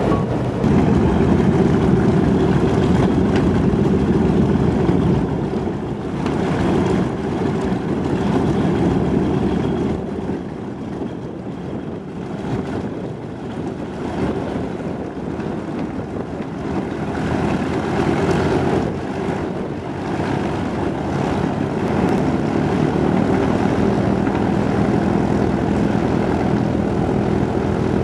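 Propeller aircraft engine drone with a steady pitch. It swells and fades in loudness: strong at first, dipping in the middle, and building again near the end.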